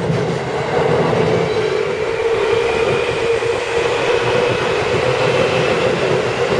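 Seibu Kokubunji Line electric train crossing a steel girder bridge: a loud, steady rumble of the wheels on the bridge, with a thin high whine above it.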